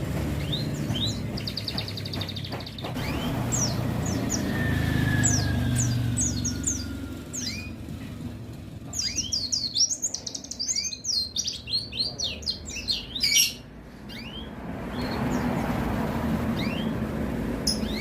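White-eye (pleci) singing: quick high chirps throughout, with a dense, rapid twittering run in the middle. The low rumble of roadside traffic runs underneath, strongest at the start and again near the end.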